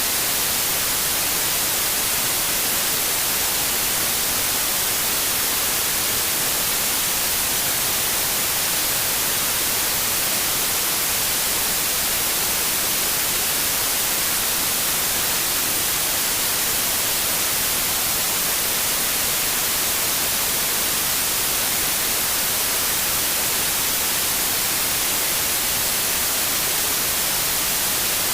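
Steady synthetic white noise: an even hiss spread across all pitches and strongest in the highs, with no change.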